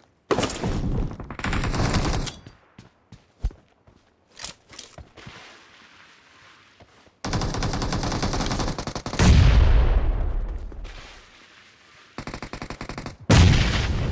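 Video-game gunfire: several bursts of rapid automatic fire, separated by scattered single shots and a quieter pause. A louder, deeper blast about nine seconds in fades away over a second or so.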